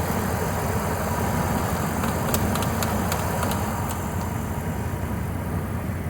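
A car engine idling steadily, the running vehicle that is supplying a jump start to a dead one. A few sharp clicks come about two to four seconds in.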